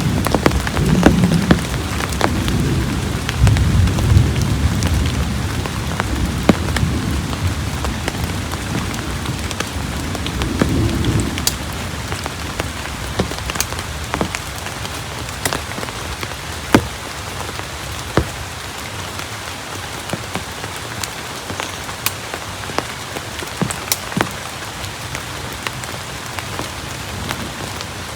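Heavy rain falling steadily, with a constant hiss and sharp ticks of single drops striking close by. A low rumble of thunder runs under it for about the first ten seconds, then dies away.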